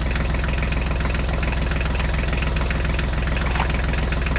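Steady chugging tractor engine sound, running evenly at a constant pace, for the toy HMT tractor as it drives along.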